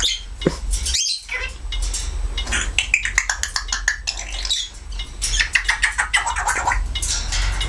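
Timneh African grey parrot chattering to itself: a rapid string of clicks mixed with short whistled and squawky sounds that slide in pitch, over a steady low hum.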